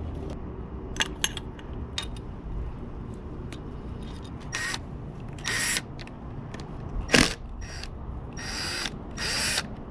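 A handheld power tool runs in about five short bursts while the engine is being taken apart, the loudest a little past the middle. A few metal clinks of tools and parts come before the bursts.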